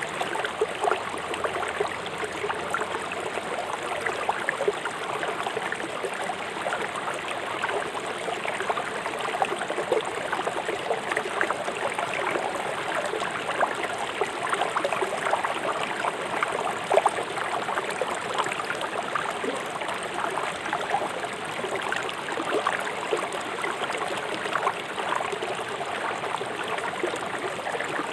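Fast-flowing river water rushing and splashing over rocks in a steady, dense babble.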